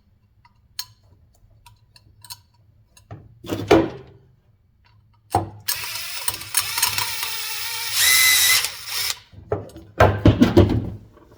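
A small handheld power tool runs for about four seconds, with a steady whine that gets louder over its last second, as it shortens machine screws that are too long for the fan motor. Light clicks and a knock come before it, and metal parts clatter after it.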